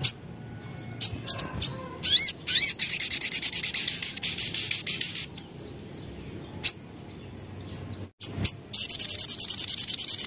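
Crimson sunbird (sogon) singing: sharp, very high chips, then a fast high-pitched trill lasting about three seconds, a few more chips, and another rapid trill starting near the end. The song of a sunbird in breeding condition.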